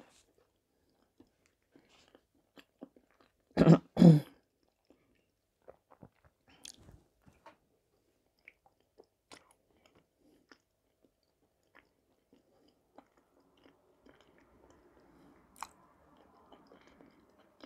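Close-miked chewing of soft potato varenyky, with scattered light clicks of a fork on the plate. About four seconds in, a short two-part vocal sound from the eater breaks the chewing.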